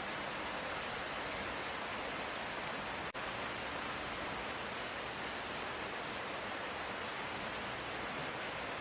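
Steady light rain, an even hiss of sound with no distinct drops or thunder, broken by a very brief dropout about three seconds in.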